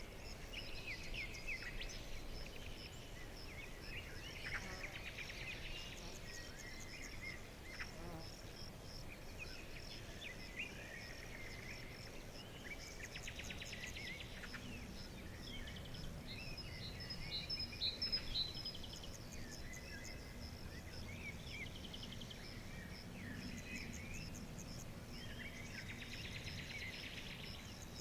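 Several songbirds chirping and twittering in short phrases over a steady, high, pulsing insect-like trill, with a faint low rumble beneath.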